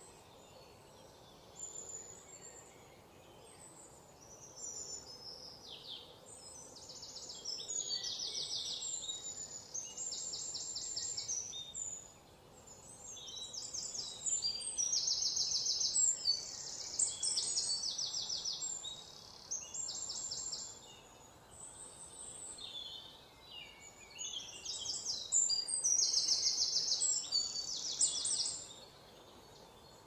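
Small birds singing: high-pitched chirps and fast trills in repeated bursts, over faint forest background noise.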